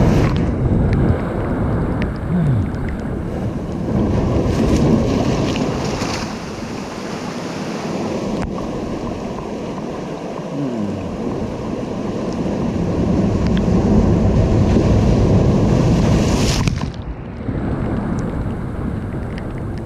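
Ocean surf breaking and washing in, a steady roar that swells, peaks late on and drops off sharply near the end, with wind rumbling on the microphone.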